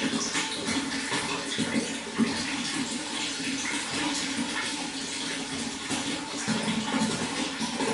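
Running water splashing in a steady, unbroken flow.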